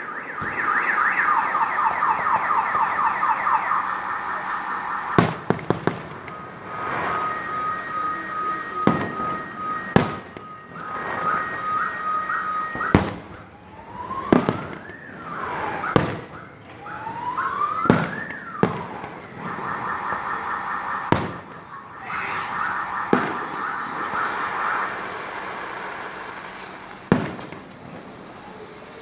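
A car alarm cycling through its tone patterns: a fast warble, a steady held tone, rising whoops, then the warble again. Sharp firework bangs go off every couple of seconds over it.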